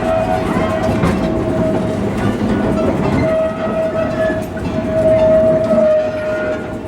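Ride train moving along the track behind an 0-4-0 locomotive: a rumble and clatter of wheels on rail with scattered clicks. Over it, a steady single high tone holds almost throughout and dips slightly in pitch near the end.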